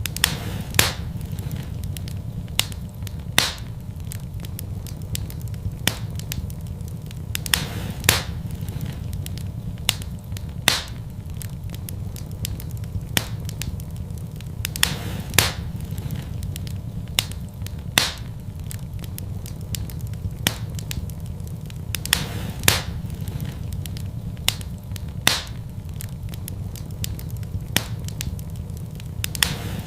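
Wood fire in a fireplace crackling, with sharp pops every second or two over a steady low rumble.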